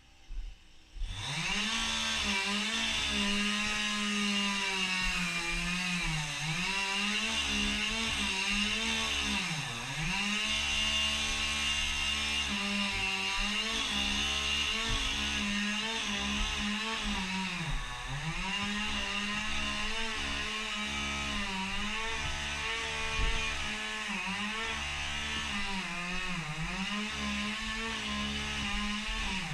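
Chainsaw revving up about a second in, then running at full throttle through cherry wood, its pitch dropping briefly four times as the chain bogs under load in the cut.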